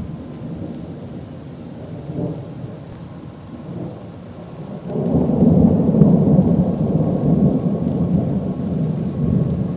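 Thunder rumbling low, swelling to a loud, rolling peal about five seconds in and rumbling on.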